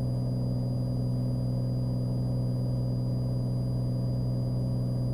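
Cessna Skylane's piston engine and propeller droning steadily in flight, heard from inside the cabin as an even, low hum that does not change.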